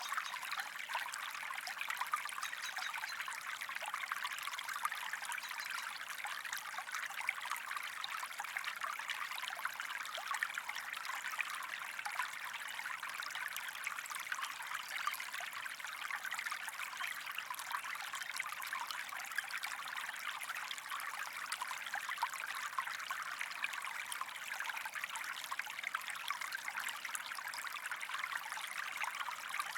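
Running water of a stream, trickling and bubbling steadily with a fine splashy texture.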